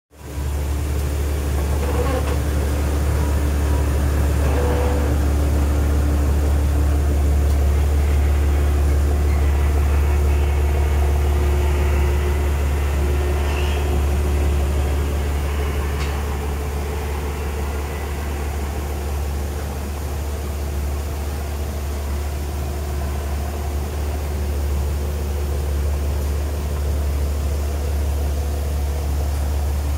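BMW E90 323i's straight-six idling steadily through an aftermarket exhaust: a Y-pipe mid-section and a single rear muffler with four tips. The exhaust note is a steady, low drone.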